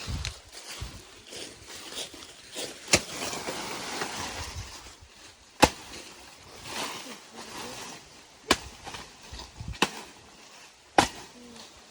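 About five sharp knocks or cracks, spaced one to three seconds apart, over a steady noisy rustle.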